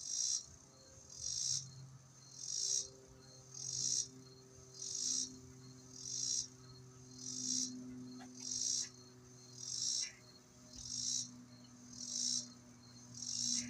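An insect's high buzzing call, repeated in regular half-second pulses about once every 1.2 seconds.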